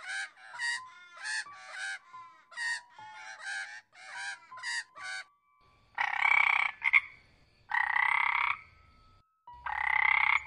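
Eurasian magpie giving a run of short, harsh calls for about five seconds, then a frog croaking three times, each croak long and buzzy, just under a second, and about two seconds apart.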